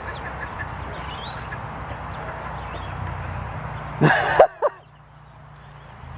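Ducklings peeping in small high chirps over a steady low hum, with one brief loud call about four seconds in. The low hum stops just after that call.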